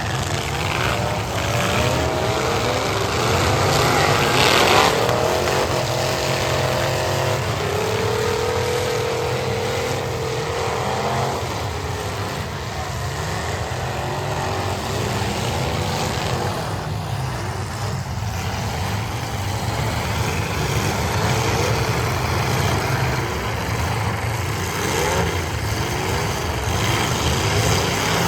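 Several demolition derby cars' engines revving at once, their pitches rising and falling over one another in a constant loud din.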